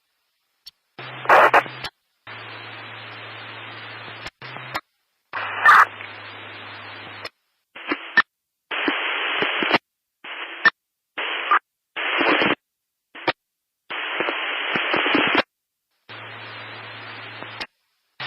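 Static noise in choppy bursts: about a dozen stretches of hiss of uneven length, each cut on and off abruptly with dead silence between. Some carry a low steady hum beneath the hiss, and there are occasional sharp crackles.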